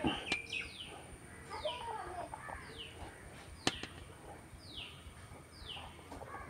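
Faint background birdsong: one bird repeating a short, falling high chirp about once a second, with a single sharp click a little past halfway.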